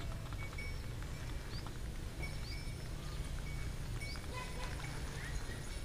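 Outdoor ambience: small birds giving short, repeated rising chirps over a steady low rumble.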